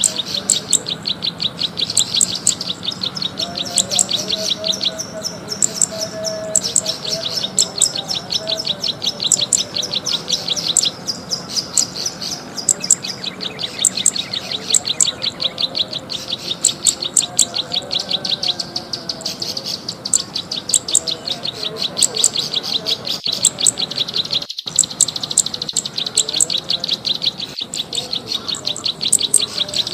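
Bird-lure recording of a small grassland songbird: a fast, continuous run of short, high chirps and clicks, many per second, broken by brief pauses.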